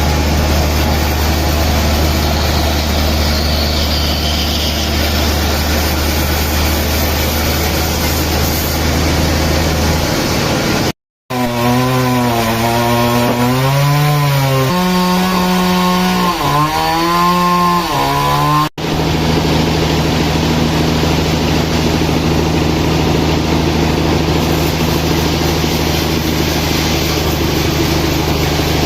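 Sawmill saws running and cutting wood, a loud steady machine noise. It comes in three stretches separated by abrupt cuts; in the middle one the saw's pitch repeatedly drops and recovers as it works through the wood.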